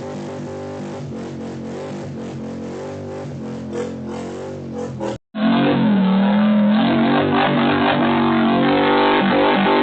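A motor vehicle engine revving up and down. It breaks off abruptly about five seconds in and comes back louder in a second take.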